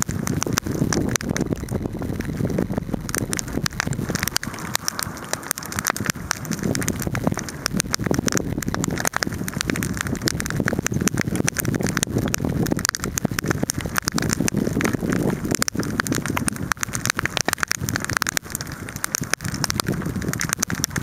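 Outdoor wood fire burning, with dense, irregular crackles and pops over a steady low rush.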